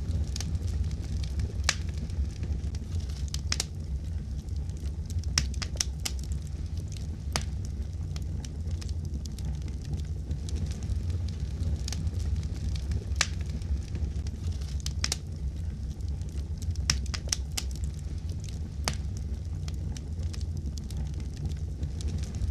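Wood fire crackling in a fireplace: a steady low rumble from the flames with irregular sharp pops and snaps.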